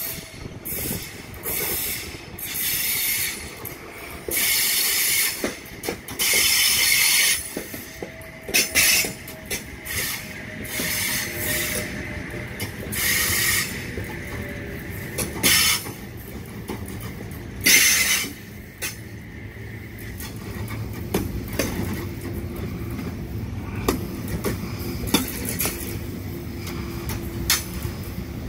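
Sydney Trains double-deck electric train passing close by: wheel and rail noise broken by many short, high-pitched squeals, the loudest about two-thirds of the way in, then a steadier rumble with a low motor hum as the carriages keep rolling past.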